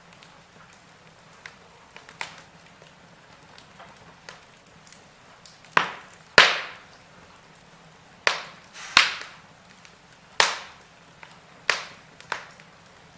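Wood fire burning in a fireplace, crackling with sharp, irregular pops over a faint hiss. A few small ticks come early, then louder pops follow every second or so through the second half.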